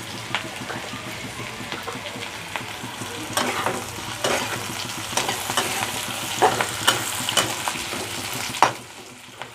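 Sliced onion and chillies sizzling in hot oil in a pan while a spatula stirs them, scraping and clinking against the pan several times. The sizzle drops a little near the end.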